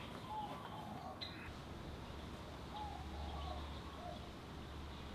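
Faint bird chirps, a handful of short calls scattered over a low steady hum.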